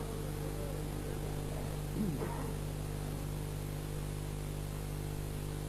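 Steady electrical mains hum from the sound system during a pause in the recitation, with a faint, brief voice about two seconds in.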